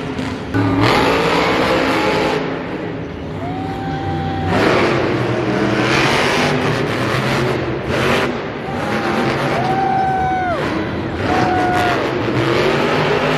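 Monster truck engines revving loudly and continuously in an arena. A few high held tones slide up and back down, once about four seconds in and twice around ten to twelve seconds.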